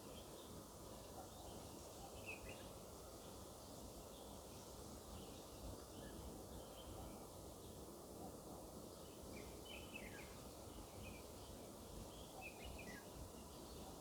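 Faint steady hiss of rain, with a few short falling bird chirps about two seconds in, around ten seconds, and near thirteen seconds.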